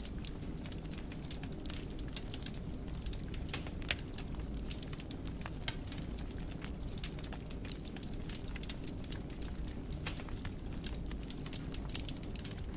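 Fireplace fire crackling: a steady low rumble of flames under dense, irregular snaps and pops, with a couple of louder pops about four and six seconds in.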